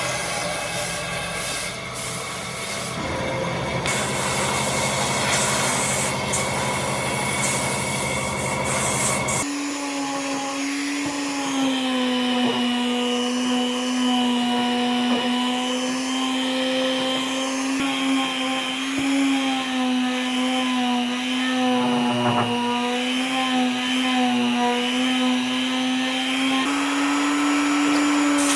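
An electric power tool is running and working wood. It makes a rough grinding noise at first, then about a third of the way in it changes abruptly to a steady motor hum of nearly constant pitch.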